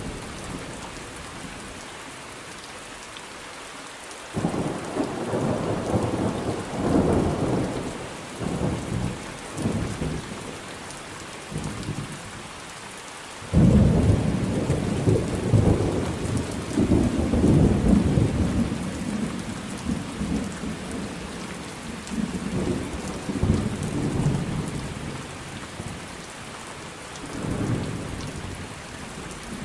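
Steady rain with rolling thunder. A peal starts suddenly about four seconds in and rumbles on for several seconds. A louder one breaks about halfway through and rolls away slowly, and a short, softer rumble comes near the end.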